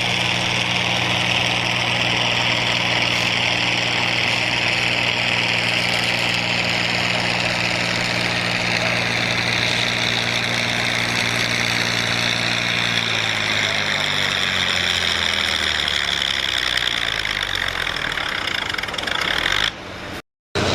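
Competition pulling engine running hard at high, steady revs with a high whine over it. About two-thirds of the way through, the revs fall away over several seconds. The sound cuts off abruptly near the end.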